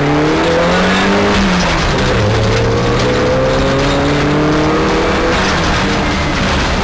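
Rally car's engine heard from inside the cabin, accelerating hard: the revs climb, fall back at a gear change about two seconds in, then climb again more slowly in the next gear until another shift about five seconds in.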